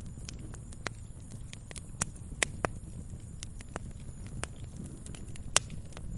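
Fire crackling in a fireplace: irregular sharp pops and snaps over a low steady rumble, with a few louder pops, the loudest near the end.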